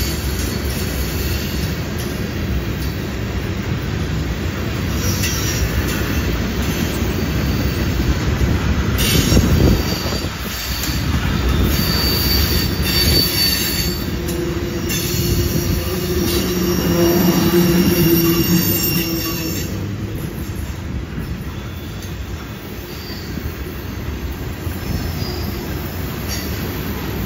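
Freight train tank cars rolling past on a curve, with a steady rumble of steel wheels on rail. Wheel squeal rings out over it, typical of flanges grinding through a curve: a high squeal a little under halfway through, then lower held tones that make the loudest stretch about two-thirds of the way in.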